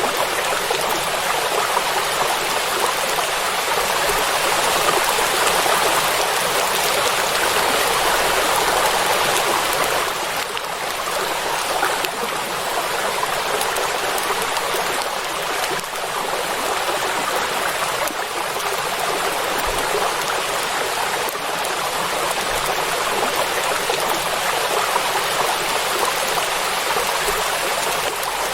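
Steady rain falling on a lake, an even hiss with no thunder.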